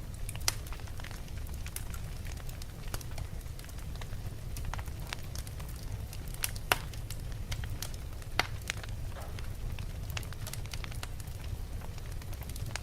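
Wood fire in a fireplace crackling: irregular sharp pops and snaps over a steady low rumble of the flames, the loudest pops about half a second in and twice a little past the middle.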